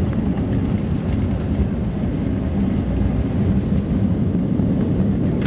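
Boeing 757 cabin noise on the ground after landing: a steady low rumble of engines and airframe, without changes in level.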